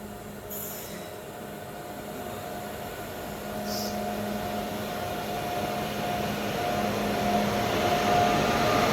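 WAG-9 electric locomotive drawing nearer: a steady mechanical hum with two held tones, one low and one higher, growing steadily louder.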